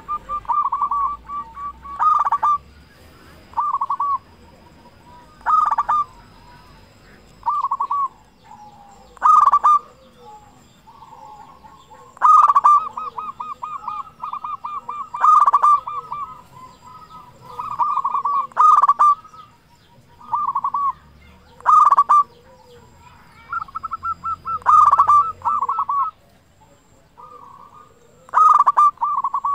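Zebra doves (perkutut) cooing loudly: short phrases of quick, pulsed coo notes repeated about every two seconds, some phrases overlapping at two slightly different pitches.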